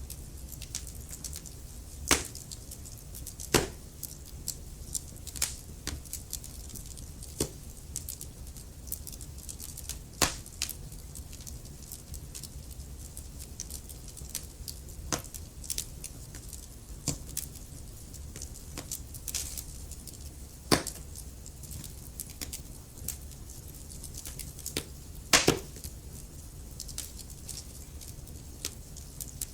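Wood fire crackling: a steady low rumble of flames under constant irregular small pops and snaps. A handful of louder sharp pops stand out, the biggest about two seconds in and again about twenty-five seconds in.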